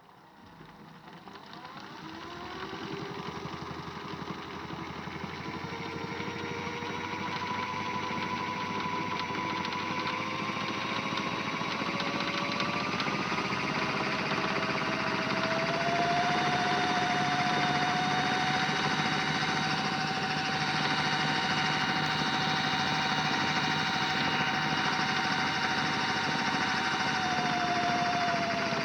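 Modified Miele W1 toy washing machine's small electric motor winding up: a whine that rises in pitch over about fifteen seconds, holds steady, then dips slightly near the end.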